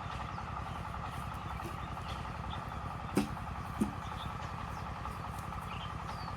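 A steady low mechanical hum with an even pulse, like an engine idling, with two short knocks about three and four seconds in and a few faint high chirps.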